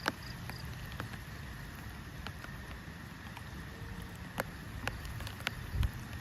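Scattered raindrops tapping sharply at irregular intervals over a steady low rumble of wind, with a heavier low thump near the end.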